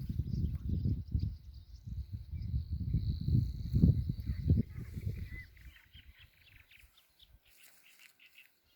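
Birds chirping and calling outdoors, under a loud low buffeting rumble that dies away about six seconds in.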